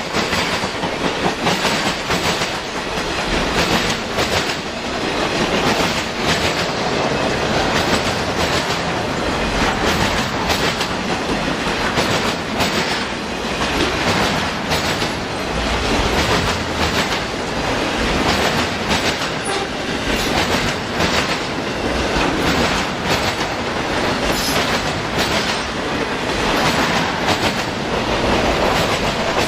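A circus train's railroad cars rolling past, steel wheels clicking over rail joints in a steady clickety-clack.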